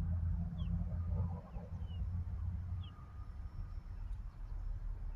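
A low, steady rumble with a few faint, short bird chirps scattered through it.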